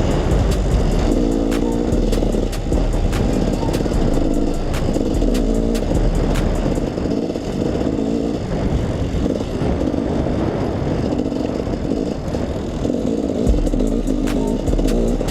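Two-stroke dirt bike engine running and revving up and down, under overlaid music with a steady beat.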